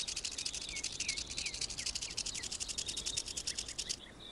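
Rattlesnake shaking its tail rattle in a rapid, even buzz, its warning alarm. The buzz cuts off abruptly about four seconds in, with faint bird chirps behind it.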